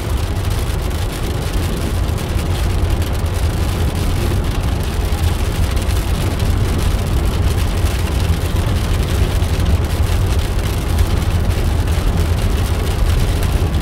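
Steady road noise inside a moving car's cabin: a low rumble with an even hiss above it.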